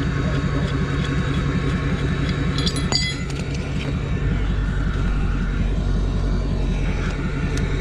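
A vehicle engine running steadily as a car stuck on ice is worked free, its note shifting lower about four seconds in. A few short metallic clinks come about three seconds in.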